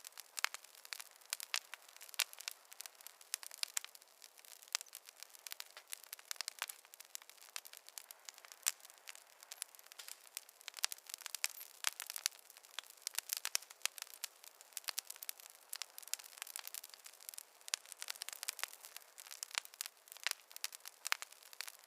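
Wood fire crackling, with many small irregular pops and snaps, several a second.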